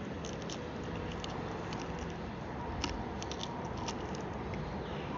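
Someone eating fried chicken feet close to the microphone: scattered small crunches and clicks of biting and chewing over a steady background hiss.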